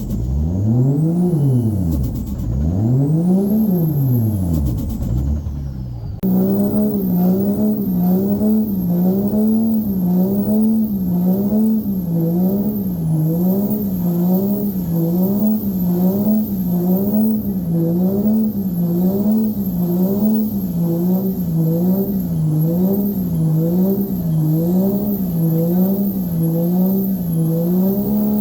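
A siren-like tone, loud and steady in level. It rises and falls slowly twice, then switches about six seconds in to a quicker up-and-down warble, about one cycle a second.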